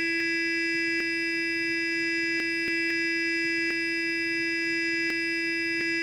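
Sonic electric toothbrush running continuously: a steady, high, buzzing hum that holds one pitch, with a few faint clicks now and then.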